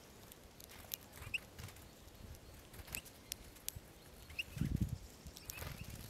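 Eurasian bullfinches pecking at sunflower seeds on snow: a scatter of sharp, irregular clicks, with a few short high chirps from small birds. A brief low rumble comes a little before the end.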